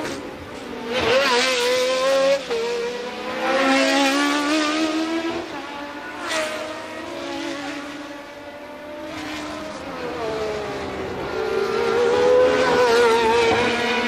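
1982 Formula One cars at racing speed, engine notes rising and falling as cars come past one after another and change gear. The loudest passes come about a second in, around four seconds in, and again near the end.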